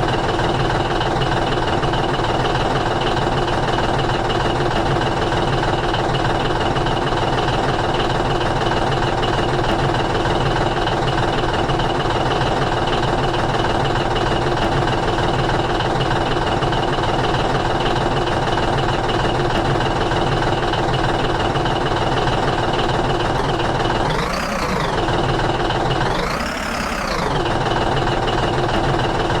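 A steady engine running at an even pace, with a constant hum. Two brief sounds about three-quarters of the way through rise and then fall in pitch.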